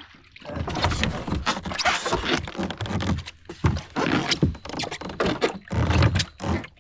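Irregular knocks, scrapes and rustles around a plastic fishing kayak as the angler fights a hooked snook.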